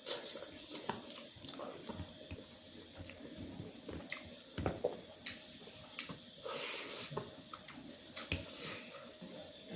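Close-miked eating: irregular chewing, biting and wet mouth smacks with small clicks.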